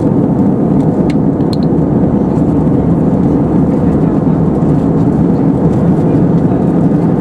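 Steady cabin noise inside an Airbus A320-232 in flight: a loud, even rush of airflow and engine drone, with a couple of faint clicks about a second in.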